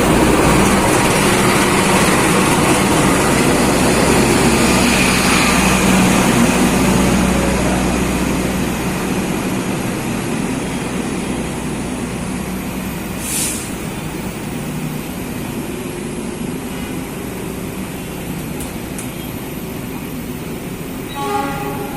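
A train running past: a loud rumble with a low steady hum that is strongest for the first several seconds and then slowly fades as it moves away. A brief hiss comes about halfway through, and a short pitched tone sounds near the end.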